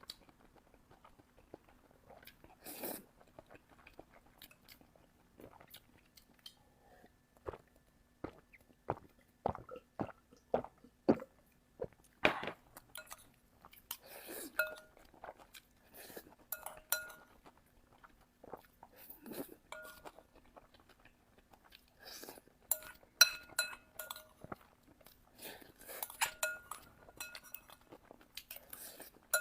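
Close-miked eating sounds: wet chewing and biting of food, with irregular mouth clicks and smacks. Now and then a short ringing clink is heard, like chopsticks or a spoon touching a bowl.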